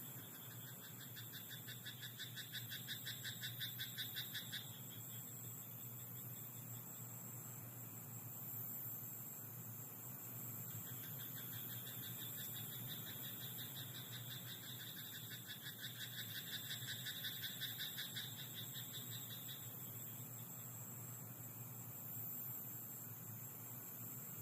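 Frog croaking in two long bouts of rapid pulsed calls, one about a second in and a longer one from about 11 to 19 seconds. A steady high-pitched insect trill runs underneath.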